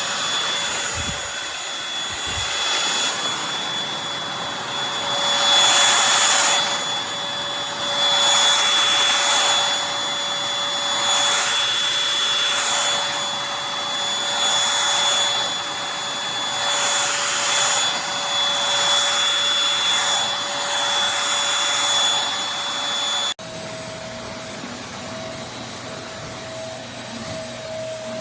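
Eureka Blaze stick vacuum cleaner running, a steady high motor whine under a rush of air that swells and eases every two seconds or so. About 23 seconds in, the sound cuts abruptly to a quieter, lower steady hum.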